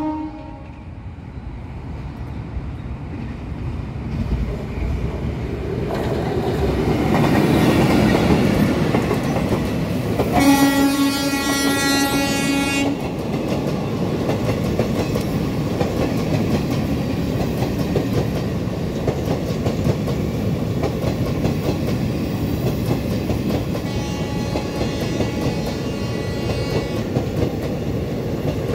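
Chitrakoot Express passenger train of ICF coaches approaching and passing at speed, its rumble building over the first several seconds. About ten seconds in, the locomotive's horn sounds once for about two and a half seconds. After that the coaches' wheels clatter past steadily over the rail joints.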